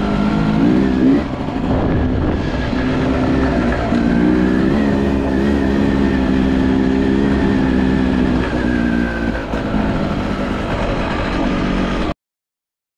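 Two-stroke enduro motorcycle engine running, revving up briefly about a second in and then holding a fairly steady pitch with small dips. The sound cuts off abruptly near the end.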